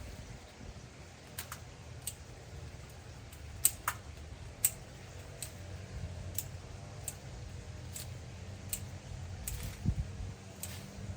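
Hand pruning shears snipping twigs: short sharp clicks at irregular intervals, about one a second, over a low steady rumble.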